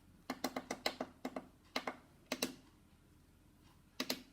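Plastic buttons on a LEAP PQ9903A digital chess clock clicking as they are pressed: a quick run of about ten presses in the first second and a half, two more a second later, then a pair near the end, stepping through the settings while programming the clock.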